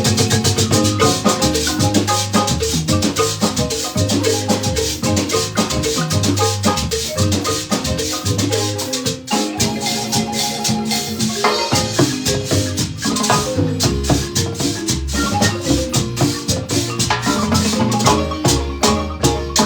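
Guatemalan marimba band playing a lively tune: rapid mallet notes over a moving bass line, with a momentary break about halfway through.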